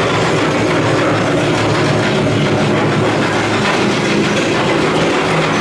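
Mine-train ride cars rolling on their track with a steady rumble and clatter, heard from a seat on board.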